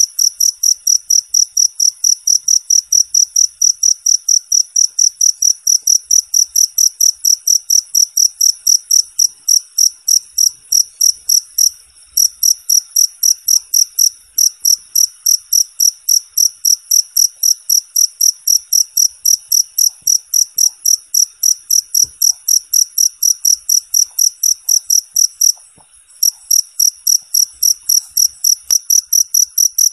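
Cricket chirping steadily in an even rhythm of about three high, clean chirps a second, with two brief breaks, about twelve seconds in and again a few seconds before the end.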